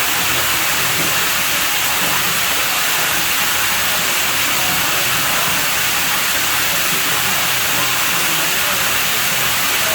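Steady, loud rush of running water at a pool villa's pool, a constant hiss with no breaks or changes.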